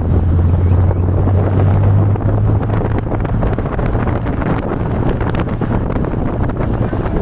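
Wind buffeting the microphone: a loud, continuous low rumble, heaviest in the first couple of seconds.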